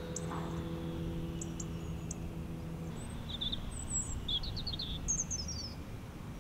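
Small birds chirping, with short high calls and quick trills, mostly in the second half, over a steady low outdoor background. A steady low hum runs for about the first three seconds and then stops.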